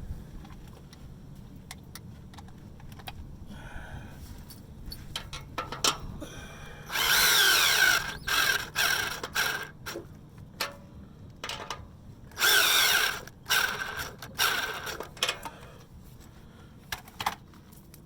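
Power drill spinning a 9/16 deep socket to run down exhaust-clamp nuts. It gives two long bursts about seven and twelve seconds in, each followed by a few short blips as the nut seats. Light clicks of tool handling come before.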